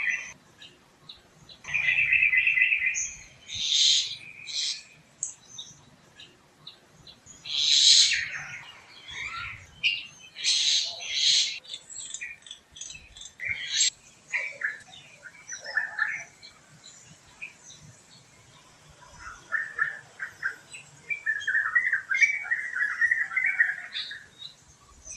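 Several forest birds chirping and calling in short, repeated phrases. There are high chirps, a buzzy trill, and near the end a longer warbled song.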